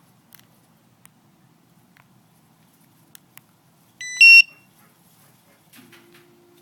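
Clifford car alarm's siren giving a short, loud chirp that steps up in pitch, the signal that the remote start has been triggered, after a few faint clicks. A faint low steady hum begins near the end.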